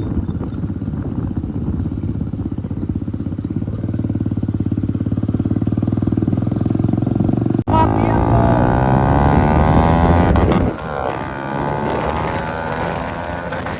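Bajaj Dominar 250's single-cylinder engine running loud through an exhaust with its baffle mesh removed, ridden at a steady pace. After a sudden break about three-quarters of the way in, the engine revs up with rising pitch under acceleration, then drops back as the throttle is eased.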